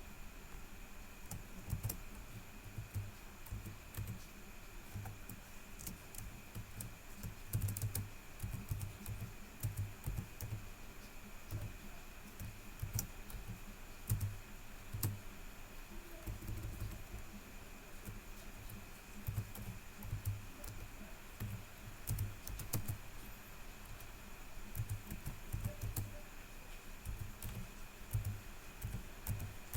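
Typing on a computer keyboard: irregular runs of key clicks as text is entered into a web form, with a faint steady high whine underneath.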